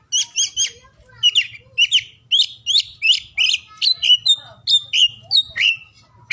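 Oriental magpie-robin (kacer) singing a fast, varied run of short whistled and scratchy notes, several a second, some sliding down in pitch.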